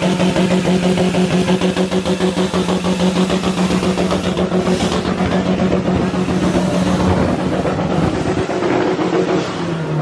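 A car engine held at high revs, a loud steady drone with a rapidly pulsing level, as at a car meet burnout or rev session.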